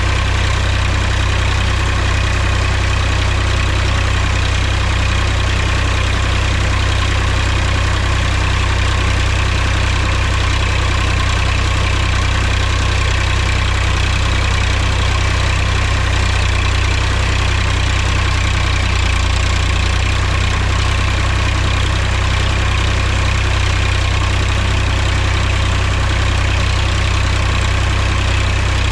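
Mahindra tractor's diesel engine running steadily, a deep, even drone that holds the same speed throughout.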